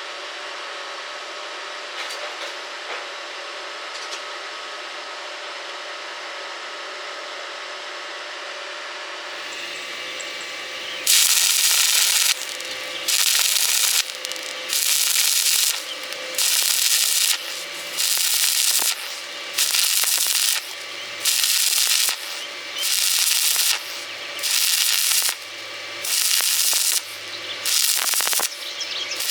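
Stick welding arc crackling in short on-off bursts: the arc is struck and broken about once every second and a half, a dozen or so times, each burst under a second long. Before that comes a steady, quieter hiss for about ten seconds.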